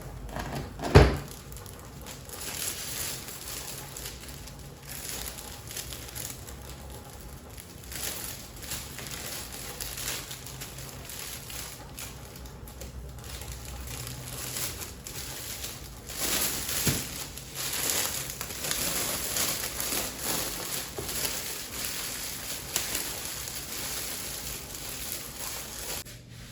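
Scraping and crinkling as a sourdough loaf is scored with a blade and handled, with a sharp knock about a second in and a smaller one later. The scratchy noise grows louder in the last third.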